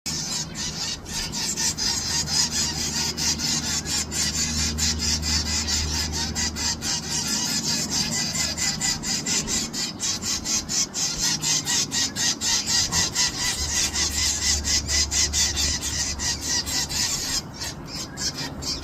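Nestlings begging for food: a continuous high hissing chorus that pulses several times a second.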